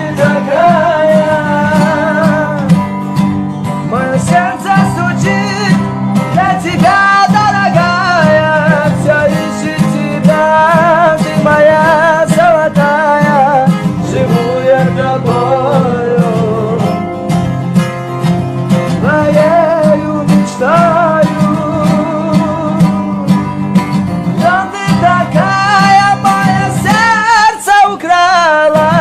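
A song sung with acoustic guitar accompaniment. The voice carries a wavering melody line over steady low guitar notes.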